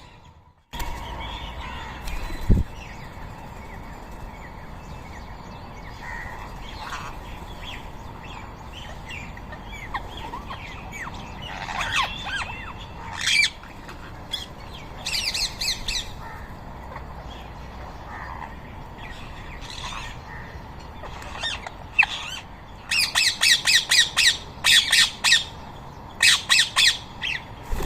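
Rose-ringed parakeets squawking: scattered harsh calls, then from about 23 seconds in a rapid run of loud, repeated screeches.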